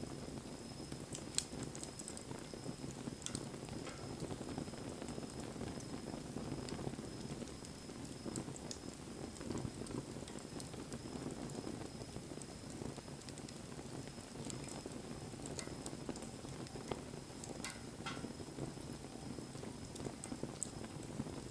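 Wood bonfire burning: a steady low rush of flame with scattered sharp crackles and pops from the burning wood.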